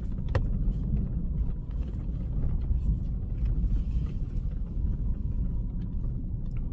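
Car running with a steady low rumble of engine and road noise heard from inside the vehicle, with a few faint clicks.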